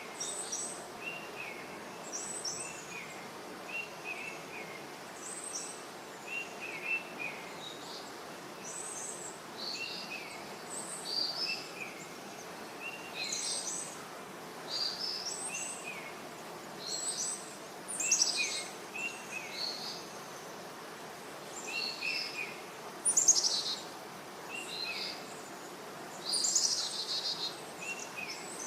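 Several birds chirping and calling over a steady outdoor background hiss: short notes repeated in twos and threes, mixed with higher, sharper calls, a few of them louder in the second half.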